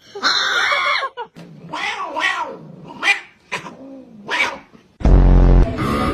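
A cat meowing: a loud call, then about four shorter calls that rise and fall in pitch. About five seconds in, a sudden loud low buzz cuts in.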